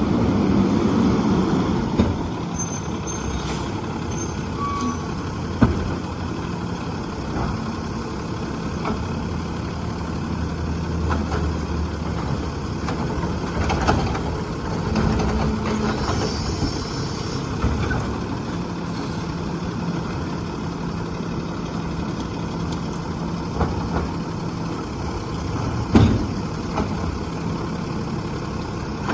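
Diesel engine of a Peterbilt garbage truck with a Heil Rapid Rail side loader running steadily. A few sharp knocks come through, the loudest near the end, and there is a short hiss about sixteen seconds in.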